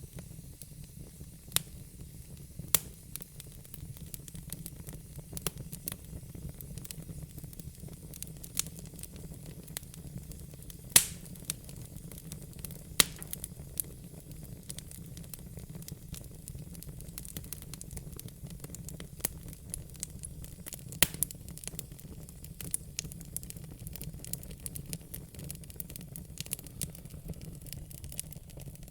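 Wood fire crackling: sharp, irregular pops and snaps, the loudest about eleven seconds in, over a steady low rumble.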